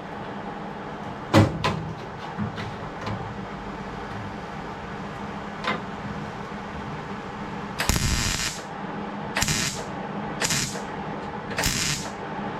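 Metal-shop work sounds: one sharp knock and a few light clicks, then four short hissing bursts of about half a second each, starting about eight seconds in, over a steady background hum.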